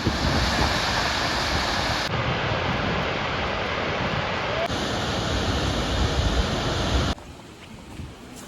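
Steady rushing water of Chitrakote Waterfall, a loud, even wash of noise. About seven seconds in it cuts off abruptly to a much quieter background.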